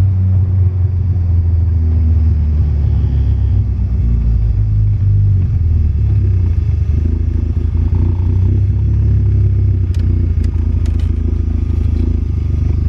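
Built 16-valve 2.1-litre four-cylinder engine of a 1988 VW Cabriolet running steadily through its full exhaust, a low rumble; a few sharp clicks about ten seconds in.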